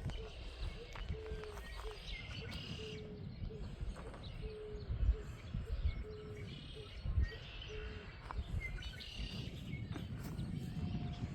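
Birds calling: scattered high chirps over a low note repeated about once a second, with a steady low rumble underneath.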